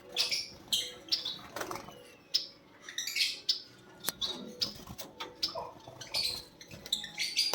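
Lovebirds chirping, many short calls coming one after another and overlapping.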